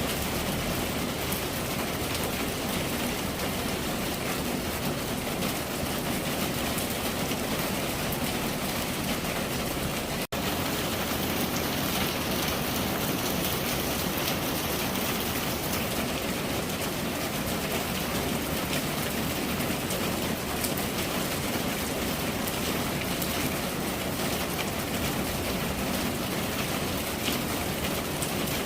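Steady rain falling, a dense even hiss of drops that breaks off for an instant about ten seconds in.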